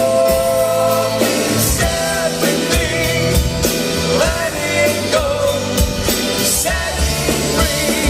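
Live rock band playing with a singer holding long, sliding notes over drums and cymbals.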